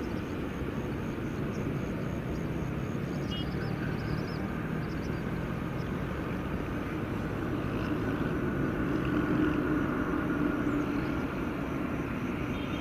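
Jet airliner engines running as a steady, distant rumble. A faint whine rises and grows louder about two-thirds of the way through.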